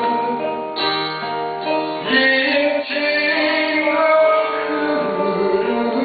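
Live acoustic band music: sustained sung notes over plucked acoustic guitar.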